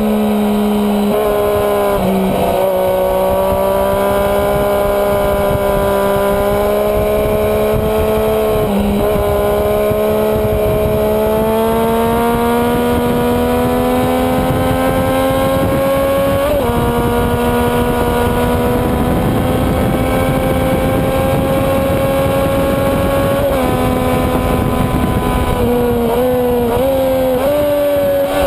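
Sport motorcycle engine pulling hard on track. Its pitch climbs slowly through long stretches of acceleration, drops abruptly at gear changes, and near the end steps up several times in quick succession, as on downshifts.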